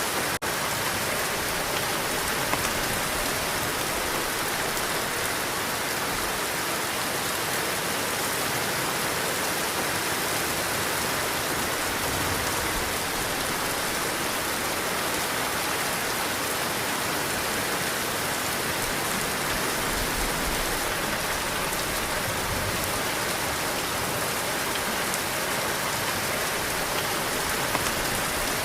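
Heavy rain falling steadily, a dense even hiss of drops with no let-up, broken only by a momentary dropout just after the start.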